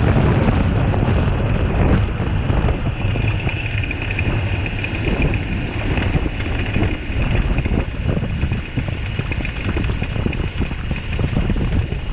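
Wind buffeting the microphone, a steady rumbling rush, with a thin high whine joining about three seconds in.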